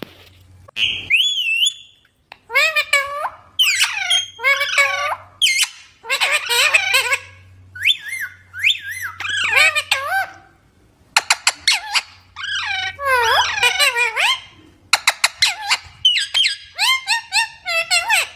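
Indian ringneck parrot squawking and chattering: bursts of rapid, sharp, evenly repeated calls alternating with warbling calls that swoop up and down in pitch.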